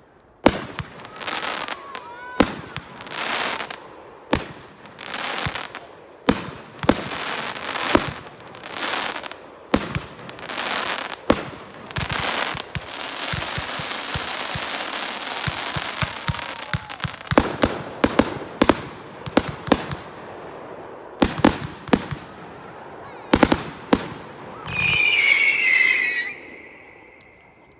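Consumer fireworks going off: sharp bangs with hissing, crackling bursts about once a second, then a few seconds of continuous crackle, then a run of sharp reports. Near the end a whistling firework screams for about two seconds, its pitch falling slightly.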